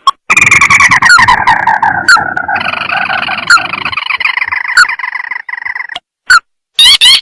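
Crake call, as played from a bird-trapping lure recording: a long chattering trill that falls slightly in pitch for about five seconds, then a few short separate notes near the end.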